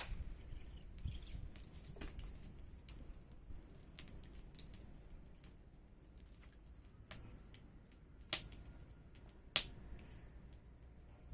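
Wood fire crackling: scattered sharp pops and ticks over a low rumble, with two louder pops about a second apart near the end.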